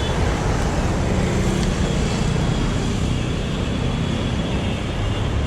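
Steady street traffic: vehicle engines running with the hiss of tyres on a rain-wet road.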